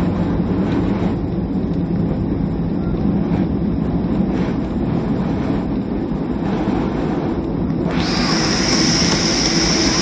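Cabin noise of a Boeing 737-300 taxiing after landing: a steady rumble with a low hum from its CFM56 engines at idle. About 8 s in, a higher hiss comes in suddenly and holds.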